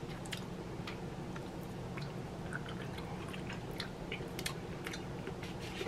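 A person chewing a mouthful of deep-dish sausage pizza, with soft scattered mouth clicks over a low steady hum.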